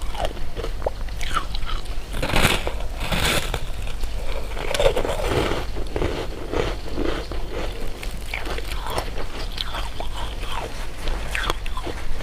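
Close-miked eating of candy: bites and chewing with crisp crunching and sticky mouth clicks, a couple of louder crunches about two to three seconds in.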